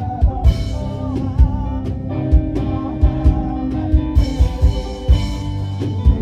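Worship band music: a drum kit keeping a steady beat under sustained chords and a wavering melody line.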